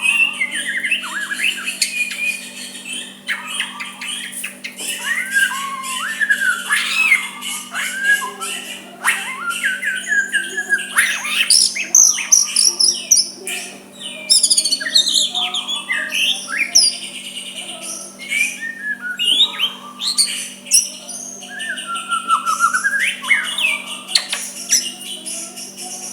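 White-rumped shama singing a continuous, varied song of rapid whistled slurs, glides and harsher squawking notes, with a steady low hum underneath.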